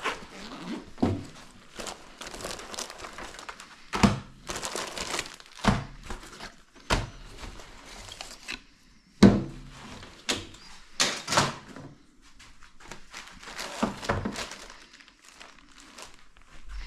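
Hands working with parts and materials: a string of sharp knocks and thunks, the loudest about nine seconds in, with rustling and crinkling between them.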